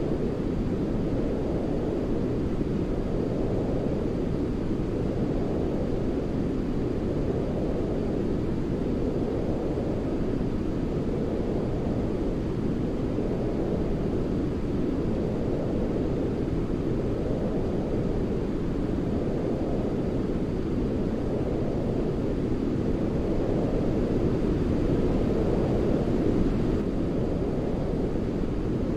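Steady, deep, rushing sleep noise, heavy in the lows like brown noise, with slow, gentle swells and no breaks; it grows slightly louder for a couple of seconds near the end.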